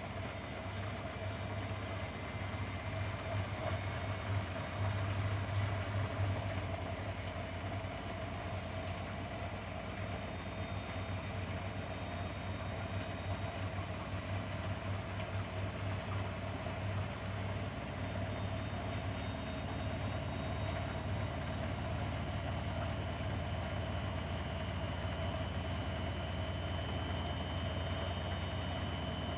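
Grundig washing machine running, its motor and drum giving a steady low hum. A faint high whine climbs slightly in pitch over the last few seconds.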